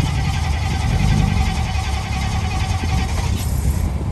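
Low, steady car engine rumble, with a hiss carrying a thin steady whistle-like tone over it that cuts off suddenly about three and a half seconds in.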